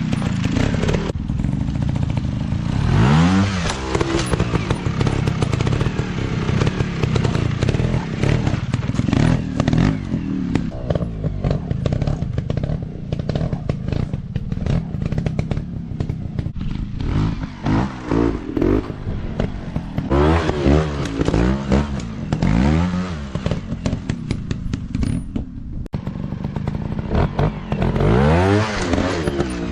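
Dirt bike engine revved in repeated bursts, its pitch sweeping up and back down several times over a steady engine note, with frequent clicks and knocks throughout.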